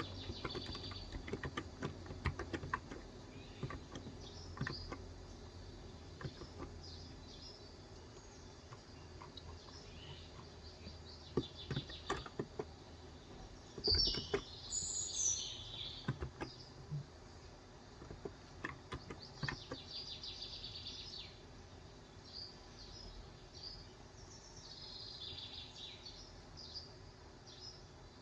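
Typing on a Cox Endeavor electro-capacitive keyboard with 35 g switches: irregular keystrokes, busier in the first half and sparse after, with pauses. Birds outside chirp and trill in bursts throughout, loudest a little past the middle.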